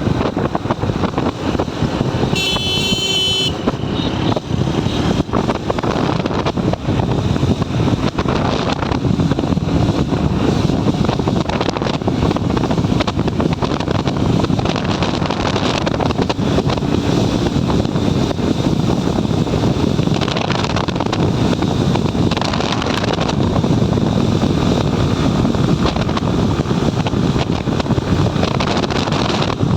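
Riding a motorcycle at speed: steady wind buffeting a helmet-mounted microphone over engine and road noise. A vehicle horn sounds once for about a second near the start.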